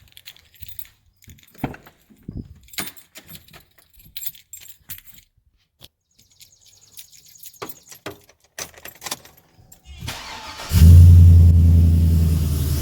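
Clicks and rustles of handling, then about ten seconds in the starter cranks briefly and a Chevy Silverado 2500HD's 6.0-litre V8 fires through new headers and a true dual X-pipe exhaust. It flares up loud, then settles into a steady idle.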